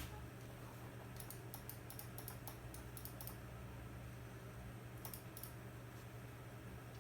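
Runs of quick, light, sharp clicks, about two seconds of them and then a shorter burst later, over a steady low hum.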